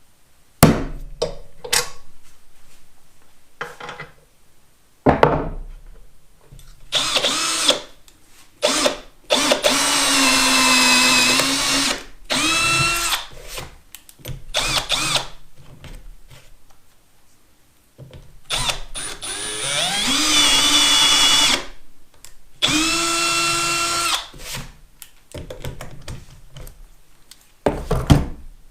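Power drill boring holes in wood in several separate bursts, each spinning up with a rising whine, running for a second or two and stopping. Sharp knocks and clicks come in the first few seconds.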